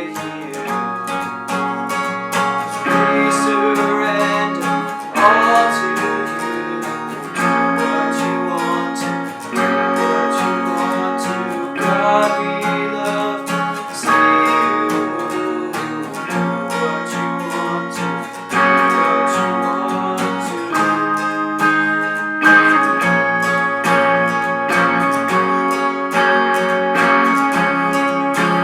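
Worship song played on strummed acoustic guitar, the chord changing about every two seconds.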